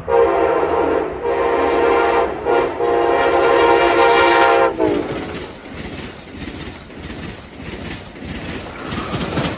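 Amtrak ACS-64 electric locomotive sounding its horn in several blasts, the last held about two seconds, then the rumble and clatter of its wheels and Amfleet coaches passing at speed.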